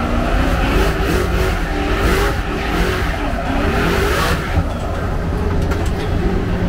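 Twin-turbo Toyota 3UZ V8 revving hard from inside the car's caged cabin, its pitch rising and falling over and over as the car slides, with bursts of hissing noise about one to four seconds in.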